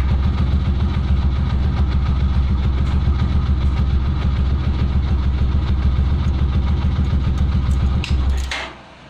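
Honda TMX 125 Alpha's single-cylinder four-stroke engine idling steadily, then shutting off abruptly near the end.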